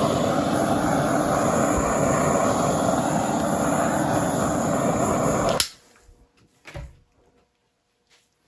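Handheld gas torch flame running with a steady hiss, played lightly over wet poured acrylic paint. It shuts off abruptly about five and a half seconds in.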